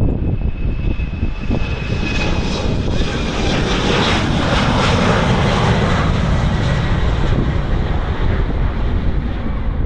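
Embraer E190 jet airliner's twin turbofan engines at takeoff power, a steady roar with a high whine that swells to its loudest about four to six seconds in as the plane passes. Strong wind buffets the microphone throughout.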